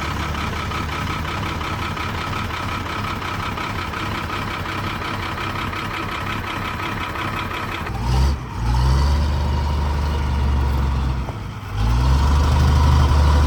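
A heavy-duty truck's engine running steadily, then revving harder from about eight seconds in, with a deeper rumble, rising sweeps in pitch and two short dips in level.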